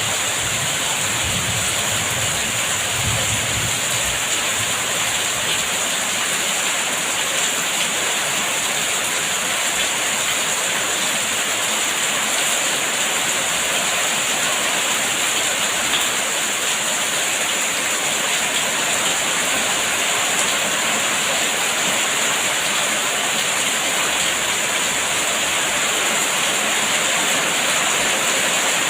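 Heavy rain falling steadily as a dense, even hiss, with a faint low rumble during the first few seconds.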